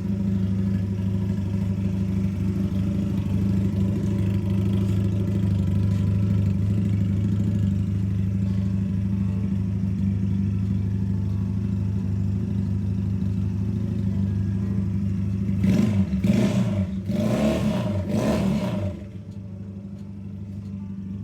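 Small 300 cc chopper motorcycle engine idling steadily, then revved sharply a few times near the end before it drops back to a quieter sound.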